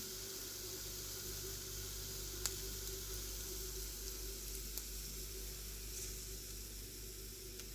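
Food frying in a pan: a steady sizzle with a few sharp pops.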